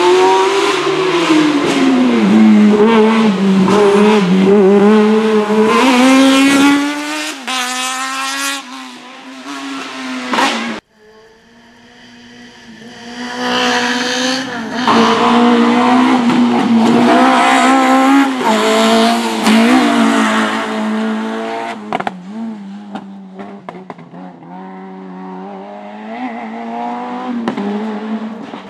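Race cars driven hard on a slalom course: engines revving high and dropping back again and again through gear changes, with some tyre squeal. The sound cuts off abruptly about eleven seconds in, and another car's engine builds up again.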